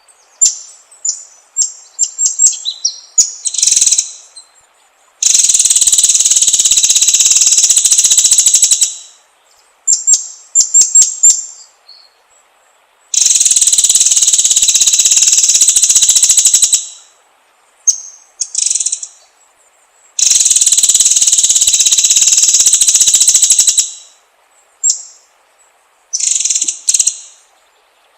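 White-rumped shama (murai batu) singing: clusters of short, high whistled and chirped notes alternate with three long, rapid buzzing trills of three to four seconds each.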